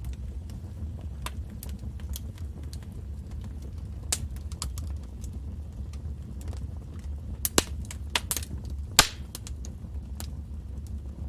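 Wood fire in a fireplace crackling, with scattered sharp snaps and pops over a low steady rumble. A cluster of louder pops comes about three-quarters of the way through, the loudest near the end of that cluster.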